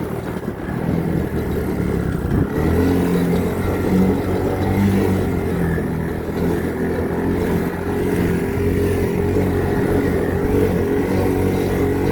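1981 Honda ATC185S three-wheeler's single-cylinder four-stroke engine running while being ridden. It revs up about two and a half seconds in, then holds a steady pace.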